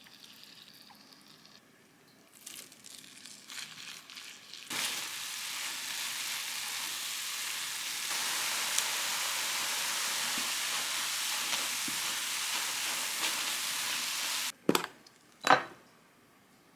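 Food sizzling in a frying pan: a steady hiss that starts about five seconds in, after some light clattering, and cuts off suddenly near the end. Two sharp knocks follow.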